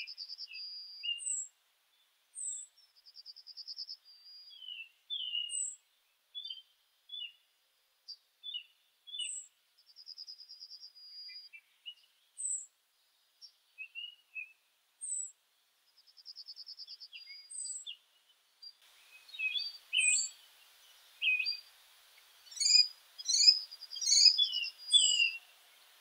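Songbirds singing: short high trills repeated every few seconds with scattered chirps in between. From about two-thirds of the way in, several birds call at once, busier and overlapping, over a faint hiss.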